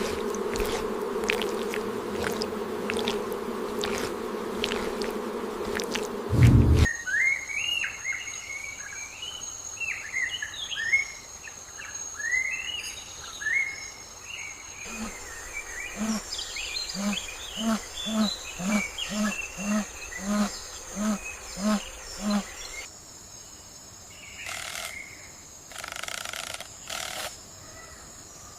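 A steady insect-like buzz that cuts off abruptly about seven seconds in. Then birdsong of quick rising and falling chirps, followed by a low call repeated about one and a half times a second, a dozen times over.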